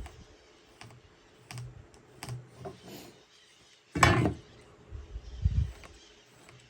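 Light clicks and taps of a carpenter's square and pencil being handled on a wooden beam, with one sharp knock about four seconds in and a dull thump about a second later.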